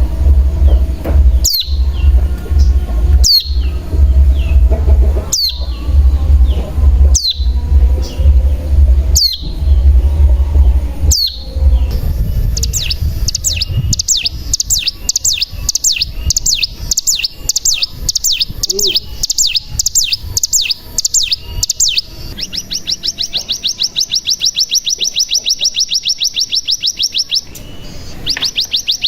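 Ciblek gunung (cigun) calling. First comes a sharp high downward-swept call repeated about every two seconds over a low rumble. From about halfway a long fast high trill begins, then an even faster buzzing trill, the 'bren' that this lure song is meant to draw from other cigun.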